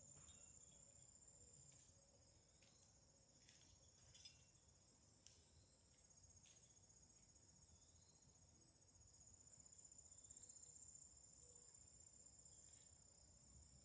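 Crickets chirping faintly in a steady high trill, with a few brief falling chirps and soft clicks over it.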